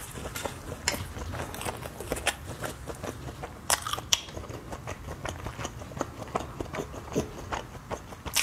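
A person chewing and biting skewered, spice-crusted grilled meat and fried tofu, with many short sharp mouth clicks and crunches, the strongest about a second in and near the four-second mark.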